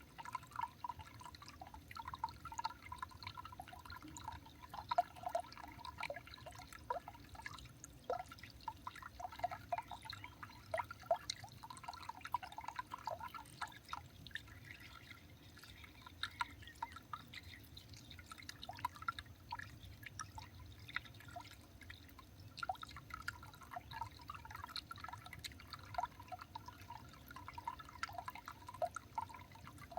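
Water dripping: many small, irregular drops a second, each a short plink, over a faint low rumble.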